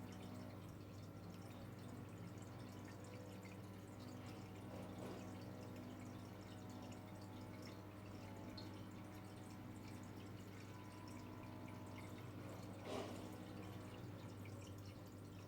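Quiet room tone with a steady low hum and faint scattered ticks, and one brief soft knock about thirteen seconds in.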